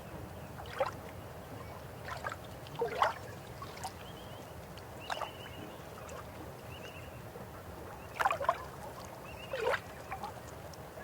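River water running steadily, with irregular gurgling plops and splashes, the loudest about three seconds in and again around eight to ten seconds in. Faint short high chirps sound now and then between them.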